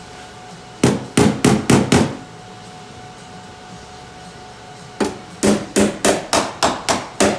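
Hammer tapping a freshly welded sheet-steel body panel to tweak it into shape: a quick run of about five sharp metallic strikes, a pause of about three seconds, then a faster run of steady blows. Each strike has a short ring.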